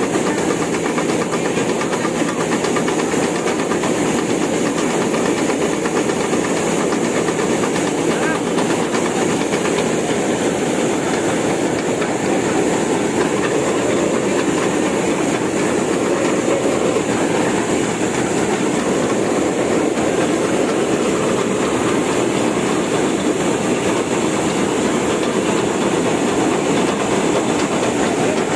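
Combine harvester running steadily while harvesting paddy: a continuous, even mechanical noise with a faint steady high whine above it.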